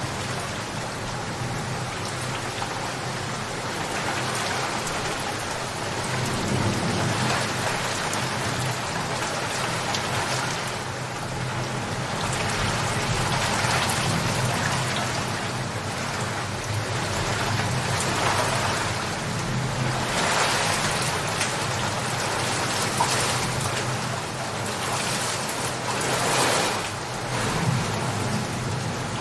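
Steady rain falling, an even hiss that swells and eases in waves every few seconds.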